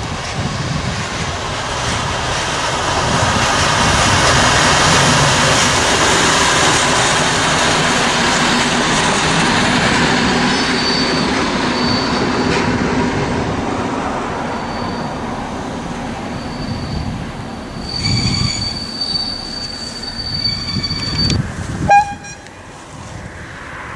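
Croatian Railways diesel railcar running past, engine and wheels on the rails, loudest a few seconds in and then fading away. Later a railcar's brakes squeal on a steady high note for a few seconds as it slows, and a short horn toot sounds near the end.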